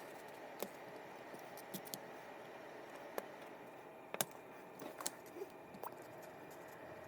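Scattered light clicks and taps of small fishing-reel parts and tools being handled during disassembly, over a steady faint hum. The sharpest tap comes about four seconds in.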